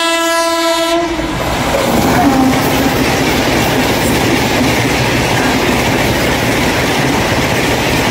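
A locomotive horn blows one steady note and cuts off about a second in. Then the Gatimaan Express passes close by at high speed, a loud steady rush of train noise.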